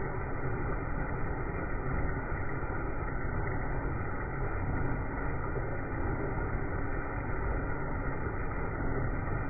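Steady, even machine noise from a PC 330 horizontal pulse-cutting saw cutting, heaviest in the low end and dull, with nothing in the highs.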